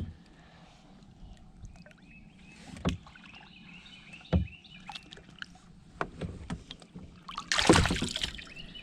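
Handling sounds on a fishing kayak: a few separate knocks, then a louder rush of noise lasting under a second near the end. Birds chirp faintly in the background.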